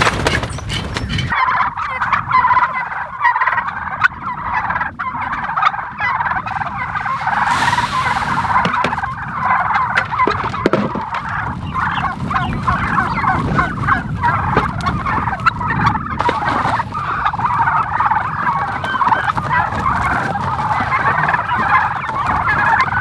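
A flock of turkeys calling all at once, a dense, unbroken chorus of overlapping calls. They are hungry after days of rationed feed and crowding for food.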